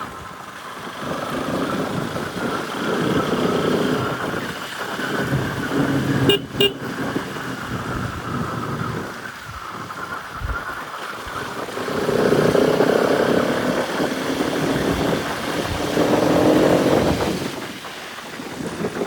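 Bajaj Pulsar RS200's single-cylinder engine pulling and easing off on a rough trail, its note rising and falling in several surges, the strongest near the middle and towards the end.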